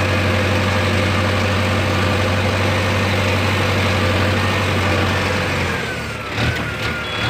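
Tractor engine idling steadily with a deep, even hum. The sound thins out about six seconds in.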